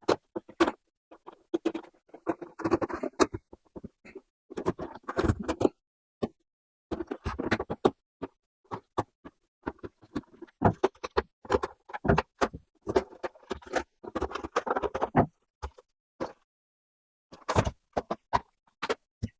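Star screwdriver taking the screws out of a Bajaj room heater's casing, with irregular clicks, scraping and knocks as the housing is handled, separated by short silences.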